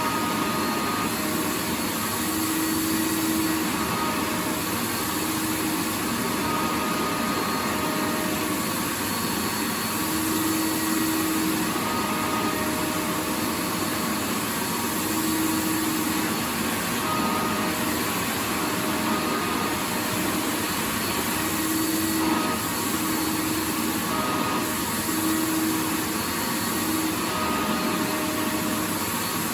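Vacuum cleaner running steadily: a continuous rushing noise with a motor hum that swells and fades every couple of seconds.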